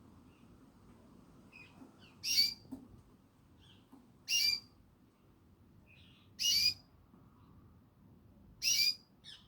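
Pet canary giving single short, high calls, four of them about every two seconds with a fainter fifth near the end, and soft faint chirps in between: separate calls, not song.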